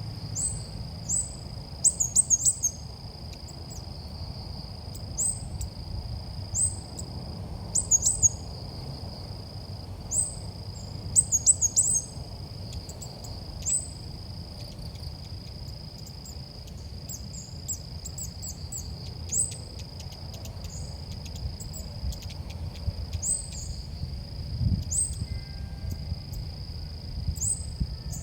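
Ốc mít bird calls used as a trapping lure: short high upswept chirps repeated about once a second, with now and then a quick fluttering trill of several notes. A steady high-pitched drone and a low rumble run underneath.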